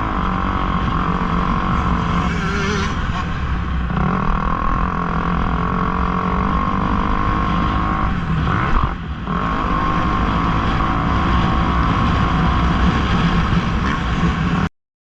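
Motocross dirt bike engines running steadily, with a short dip about nine seconds in; the sound cuts off abruptly near the end.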